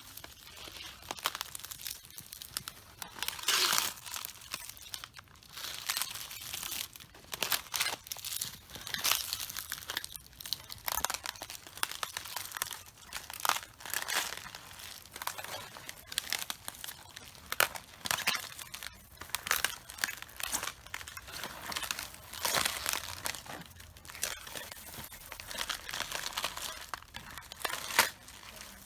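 Footsteps crushing cabbage leaves: a dense, irregular crunching and crackling, with louder crunches every few seconds.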